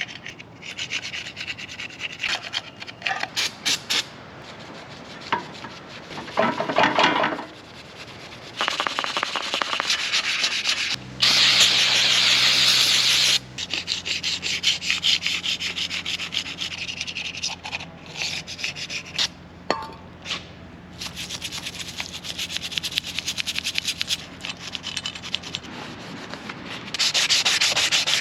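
Scraping and rubbing on a small mower engine's cylinder head, cleaning off carbon and the remains of the blown head gasket. A steady hum from a small motor runs through the middle stretch, loudest for a couple of seconds near its start.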